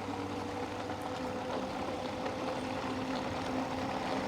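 Electric bike riding along a road: a steady motor hum over tyre and road noise.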